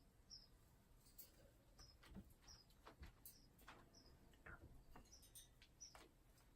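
Faint, short high-pitched chirps from a pet bird, coming at irregular intervals about once a second, with soft clicks and taps between them.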